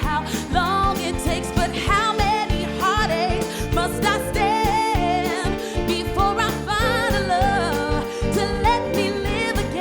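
Live band playing a Motown song, with a woman's lead vocal gliding and wavering with vibrato over it.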